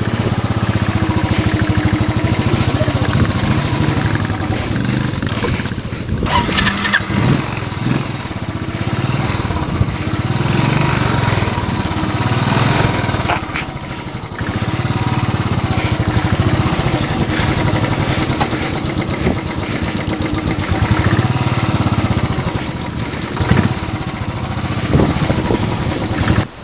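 Royal Enfield Bullet 500's single-cylinder four-stroke engine running at low speed while the motorcycle is ridden over a rough dirt track, heard from the rider's chest, its loudness dipping briefly a few times as the throttle eases.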